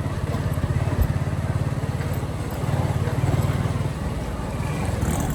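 Motorcycle engine running while riding, a steady rapid low puttering that swells briefly a few times, with a short low knock about a second in.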